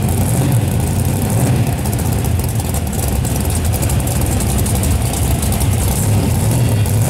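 AMC Pacer X drag car's engine idling loudly as the car creeps along at walking pace, a steady low-pitched engine note.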